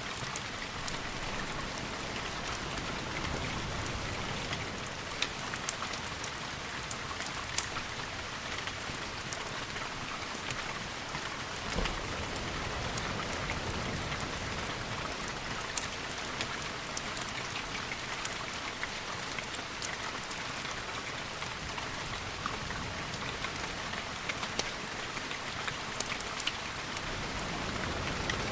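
Steady rain falling, an even hiss sprinkled with many small sharp ticks and pops. There is one brief low thud about twelve seconds in.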